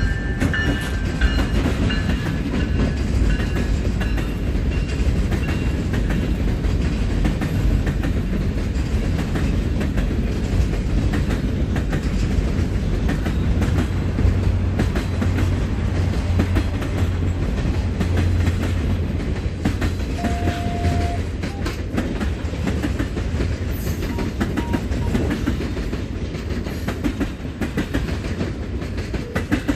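A Canadian Pacific train rolling past close by: a steady rumble with the clickety-clack of wheels over the rail joints as boxcars and then a passenger car go by. Several thin high tones ring over the first few seconds and fade away, and the rumble eases a little near the end as the last car passes.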